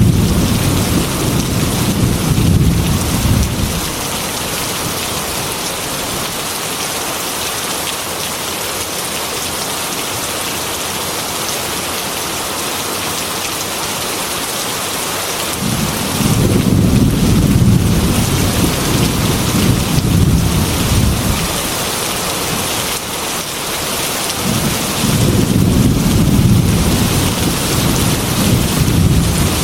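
Heavy rain beating steadily against a glass window, with thunder rolling in long low rumbles: one fading out about four seconds in, another starting about halfway through and lasting several seconds, and a third near the end.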